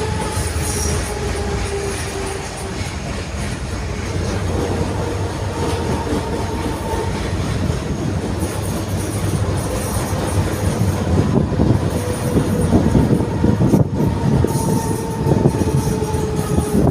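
Type 71-631 tram under way: steady rumble of steel wheels on the rails with a faint whine that drifts slightly lower in pitch. Rattling and knocking from the track grow louder about twelve seconds in.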